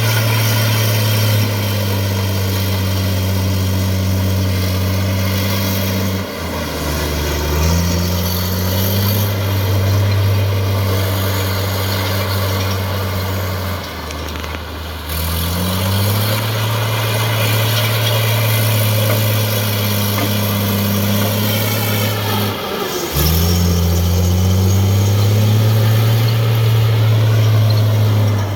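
Heavy diesel engine of earthmoving machinery running steadily. Three times its pitch drops briefly and then climbs back up.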